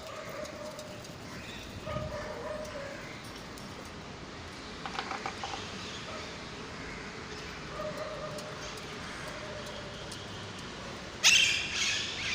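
Short faint animal calls now and then, a quick run of clicks about halfway, and a brief loud burst near the end.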